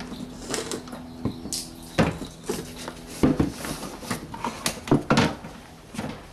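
Irregular clicks and knocks of hands working the plastic connectors and hoses of a BMW E90's windscreen washer fluid reservoir while removing it, over a steady low hum.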